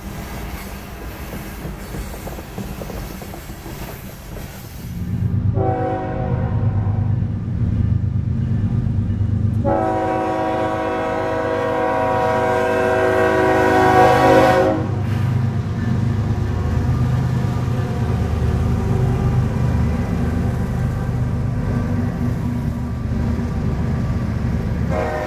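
Freight train rolling past with steady rail and wheel noise. About five seconds in, a diesel locomotive's engine rumble comes in and its air horn sounds two long chord blasts, each about four to five seconds. After that, refrigerated boxcars rumble past over the rails.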